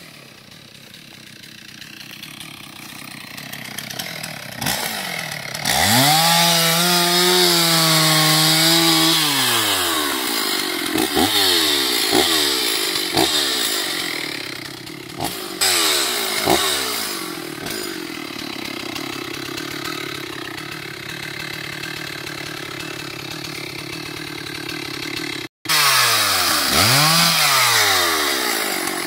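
Chainsaw engine running: revved up and held at high speed for about three seconds, then dropping back with repeated short throttle blips. The revving rises and falls again near the end.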